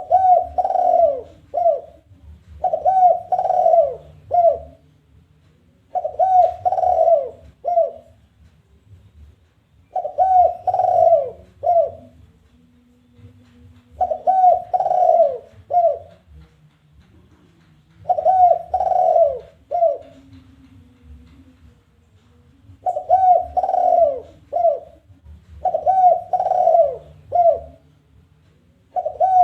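Spotted dove giving its challenge call: repeated cooing phrases, each a run of coos closed by a single short 'kuk' note, coming every two to four seconds.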